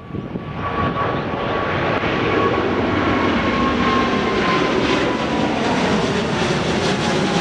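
Jet airliner engines at takeoff power, swelling in loudness over the first couple of seconds and then holding loud, with a high whine that slowly falls in pitch.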